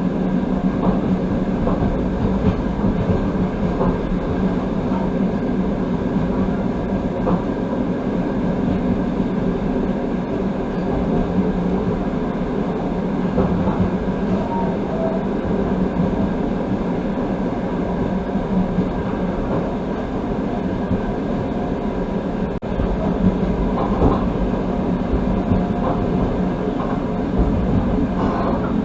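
Passenger train carriage running at speed, heard from inside: steady rolling noise of the wheels on the rails, with a few faint knocks in the second half.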